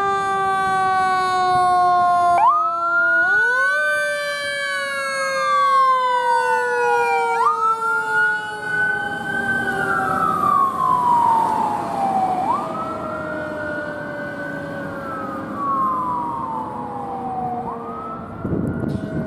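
Emergency vehicle sirens. One wails, rising and falling about every five seconds, over a second steady siren tone that starts up suddenly and then winds slowly down. A low rumble comes in near the end.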